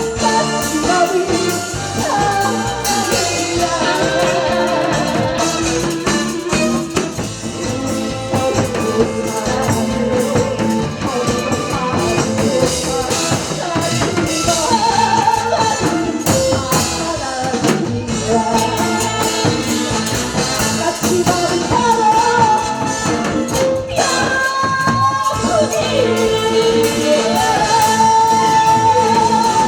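A singer performing a Korean trot song over full musical accompaniment with a steady percussion beat.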